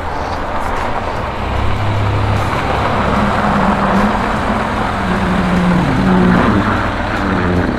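A car's engine running close by as it pulls up, with a steady rushing noise over a low engine hum whose pitch shifts a little partway through.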